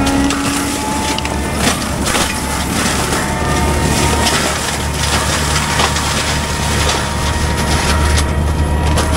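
Heavy equipment's diesel engine running steadily while wood and brush are crushed, with many sharp cracks and splintering throughout.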